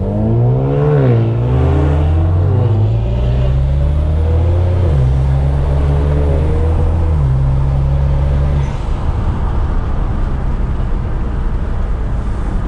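Car engine accelerating hard. Its pitch climbs and drops twice in the first few seconds as gears change, then runs fairly steady before the engine eases off about nine seconds in.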